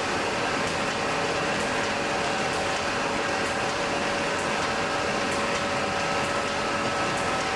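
Blacksmith's coal forge fire burning with a steady rushing hiss and faint scattered crackles.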